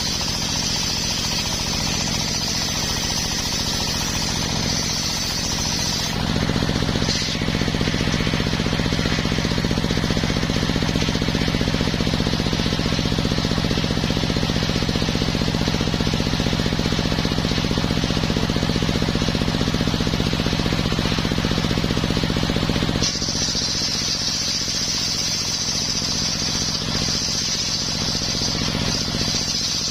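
Homemade circular sawmill running steadily while sawing coconut wood, with a constant low machine hum. A high hiss runs for the first six seconds or so, gives way to a slightly louder, lower-pitched stretch, and returns about 23 seconds in.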